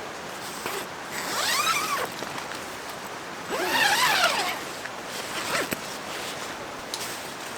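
A zipper, most likely on the tent, pulled in two long strokes of about a second each, the second a little louder, over a steady background hiss.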